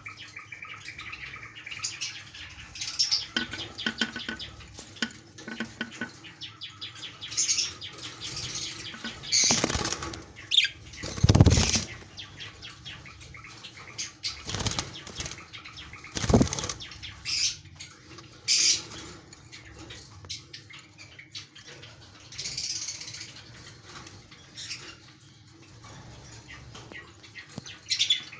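Budgerigars chirping and chattering with repeated wing flapping and fluttering. Several louder flaps stand out, the loudest about eleven seconds in.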